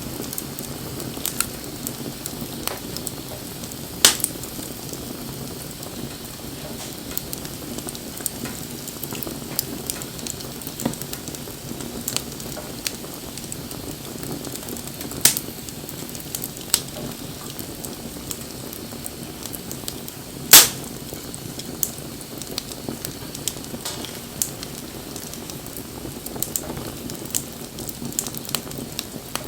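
Wood bonfire burning, with a steady low rush of flame and frequent sharp crackles and pops from the burning wood. The loudest pop comes about two-thirds of the way in.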